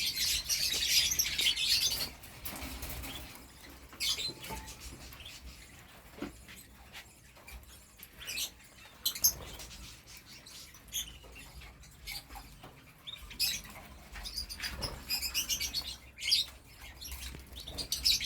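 Domestic canary singing: a dense, fast trilled song for about the first two seconds, then scattered short chirps and a few sharp knocks, with bursts of song again about three-quarters of the way through and just before the end.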